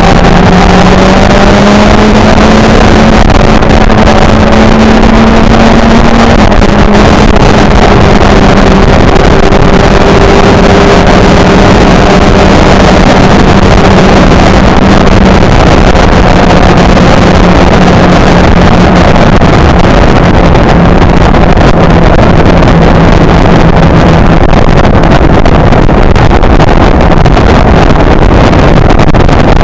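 Motorcycle engine running under way, buried in heavy wind rush over the microphone; its pitch rises in the first couple of seconds, then sinks slowly for the rest of the ride.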